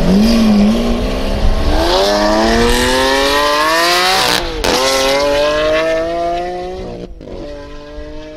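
Lamborghini Aventador's 6.5-litre V12 through a Capristo exhaust, accelerating hard from a standing start: the engine note climbs steadily in pitch, drops at upshifts about four and a half and seven seconds in, then climbs again as the car pulls away and fades.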